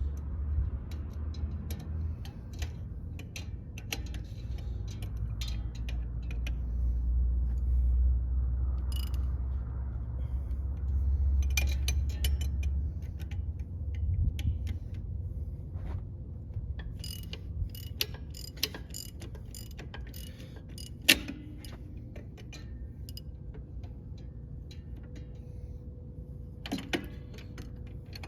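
Hand socket ratchet clicking in short runs while loosening the brake-chamber nuts, with scattered metal clinks of tools. A low rumble runs under the first half and fades out about halfway through.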